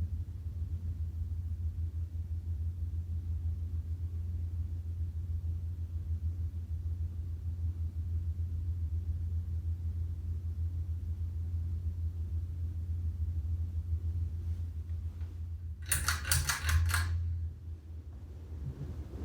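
Encon ceiling fan running on medium speed with a steady low motor hum. About sixteen seconds in, the pull-chain switch clicks and its chain rattles for about a second as the fan is switched to high speed.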